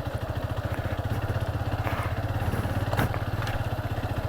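Motorcycle engine running steadily, its exhaust pulsing evenly, with a couple of brief knocks partway through.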